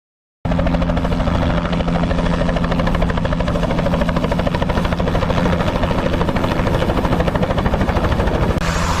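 Helicopter running steadily, a dense drone with a steady low hum, cutting in abruptly just after the start. A brighter hiss joins near the end.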